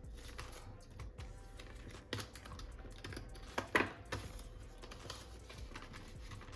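Paper bills and plastic binder envelopes being handled: light scattered clicks and rustles, with one louder crinkle about three and a half seconds in.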